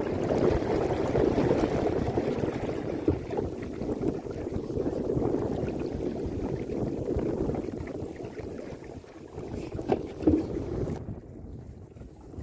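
Water rushing and splashing along the hull of a sailing canoe under way, with a couple of sharp knocks near the end.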